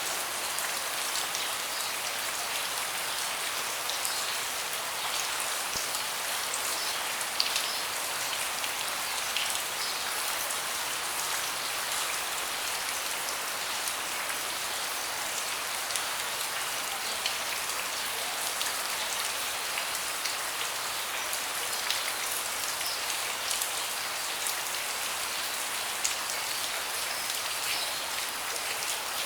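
Steady rain falling, an even hiss with individual louder drops ticking now and then, the sharpest about seven seconds in and again near the end.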